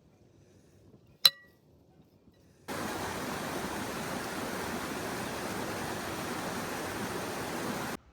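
A single sharp clink about a second in, then a steady rush of running water for about five seconds that starts and stops abruptly.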